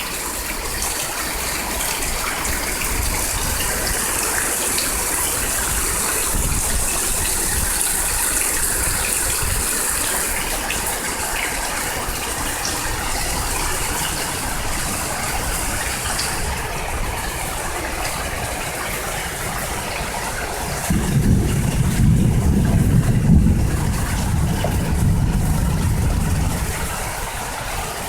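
Hard rain pouring down steadily with running, gushing water. A low rumble swells up for several seconds about three quarters of the way through.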